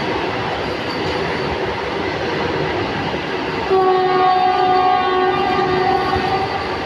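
Indian Railways train running close by with a steady rumble, and about halfway through the locomotive's horn sounds one long note for about three seconds.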